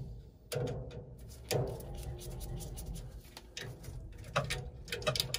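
Irregular clicks and knocks of hands working on a furnace, with several sharper knocks near the end.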